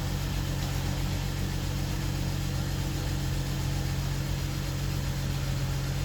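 BMW N55 turbocharged inline-six idling steadily just after its first start following an engine swap.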